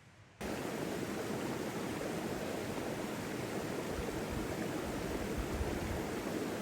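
Rushing river water, a steady full noise with a low rumble beneath, starting abruptly about half a second in.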